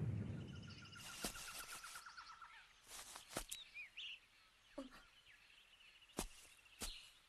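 Quiet forest ambience: a rumble dies away in the first second, then birds trill and give a few short falling chirps. Several sharp taps come later, about half a second to a second apart.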